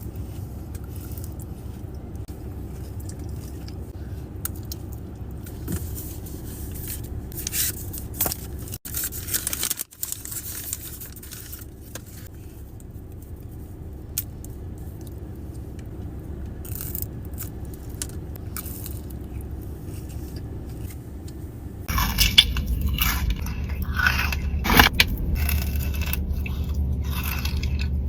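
A person biting into and chewing a Dubai-style chocolate bar close to the microphone, with scattered sharp crackles over a steady low hum. About 22 s in the eating sounds jump louder and come thick and fast.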